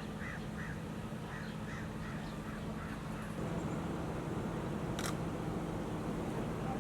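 A bird gives a run of short, harsh calls, about three a second, that stop about three seconds in, over a steady low hum that grows louder about three and a half seconds in. A sharp click sounds about five seconds in.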